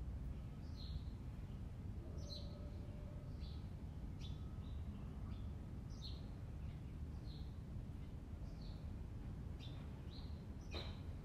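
Small birds chirping repeatedly, short high chirps that drop in pitch, roughly one a second, over a steady low background rumble.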